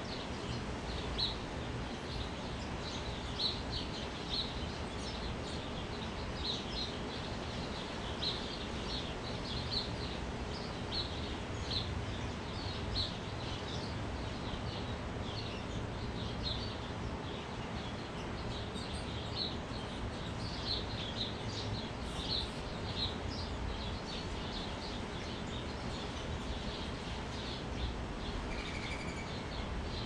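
Small birds chirping, short high chirps repeated in quick clusters throughout, over a steady low background rumble.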